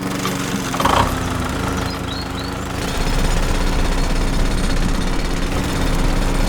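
Small motor of a DIY mini tractor model running with a steady whine and a fast mechanical rattle, growing louder about three seconds in.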